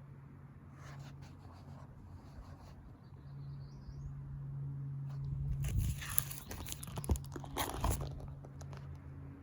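Handling noise of a book of photos, likely a page being turned: a few seconds of rustling with sharp knocks about halfway through, over a steady low hum. A faint bird chirp comes before it.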